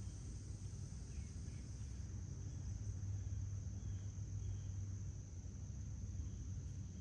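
Insects droning in chorus, a steady high-pitched buzz, over a low steady hum, with a few faint bird chirps.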